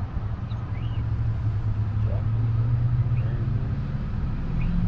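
Low, steady hum of a car's engine and road noise heard from inside the moving vehicle, swelling a little through the middle.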